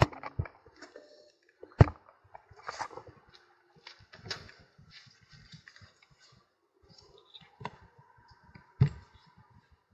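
Scattered clicks and knocks of small metal and plastic parts and hand tools being handled on a workbench during reassembly of a gear-shift actuator, with two sharper knocks, about two seconds in and near the end.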